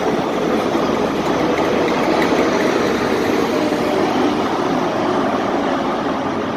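A train running steadily, with continuous even engine and machinery noise.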